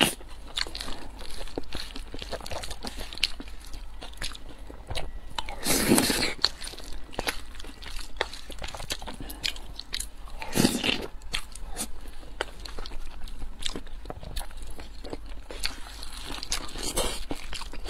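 Close-miked eating: mouthfuls of mapo tofu and rice being chewed, with many small wet mouth clicks and smacks, and two louder slurps as spoonfuls go in, about six and eleven seconds in.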